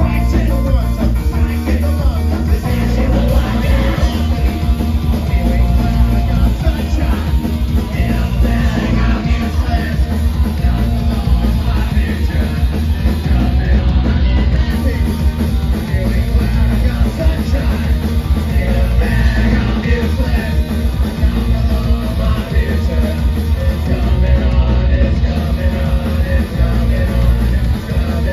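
Punk band playing live: distorted guitars, bass and drum kit, loud and continuous, with some singing or yelling mixed in.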